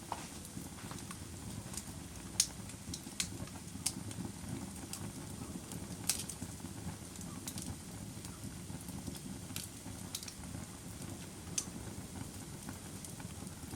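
Fire crackling: irregular sharp pops, roughly one a second, over a steady low rumble of burning.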